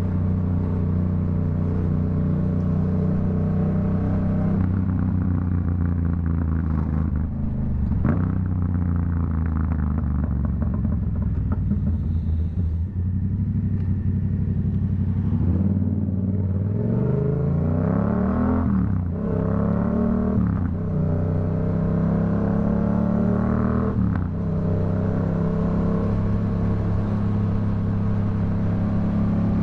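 Yamaha MT-07's CP2 parallel-twin engine through a Black Widow aftermarket exhaust while riding. It holds a steady cruise, then the revs drop off the closed throttle with a few sharp pops and crackles on the overrun. Past the middle it pulls up through the gears, each rising run of revs cut by a quick drop at the shift, before settling back to a steady cruise.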